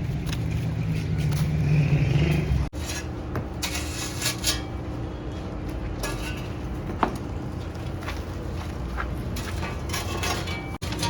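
A steady low drone, cut off abruptly after about three seconds, then intermittent scraping and clinking, like metal or utensils worked against a hard surface.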